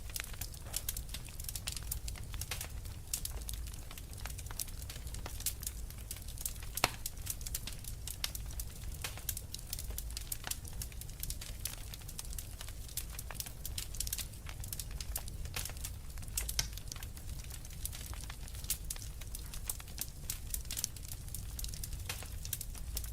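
Wood fire in a fireplace crackling: burning logs giving off irregular sharp pops and snaps over a low steady rumble of flame, with one louder crack about seven seconds in.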